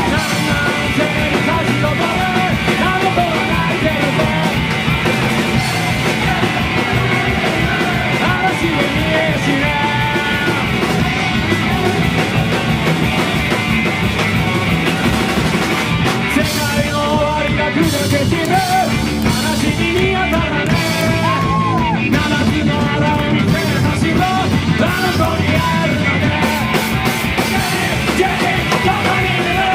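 Live garage-punk rock band playing at full volume, with electric guitars, bass and drum kit, and yelled vocals at times.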